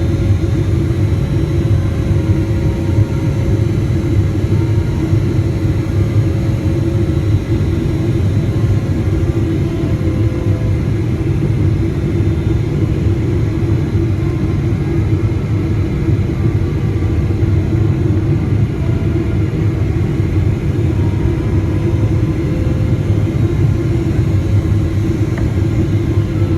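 Steady cabin noise of a Boeing 777-300ER airliner in flight: a loud, even rumble of engines and airflow with a constant low hum.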